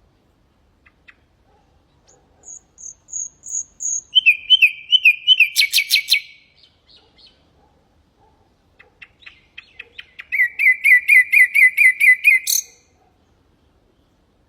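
Common nightingale singing two phrases. The first opens with a few high whistled notes and builds into a fast trill of loud repeated notes. The second starts with sharp clicks after a short pause, runs into another fast trill and cuts off sharply.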